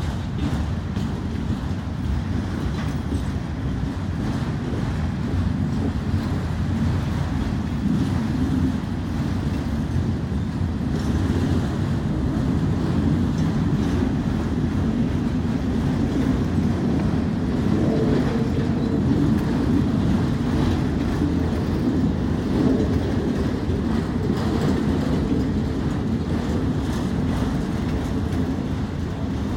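Freight train of autorack cars rolling slowly past, a steady low rumble of steel wheels on the rails.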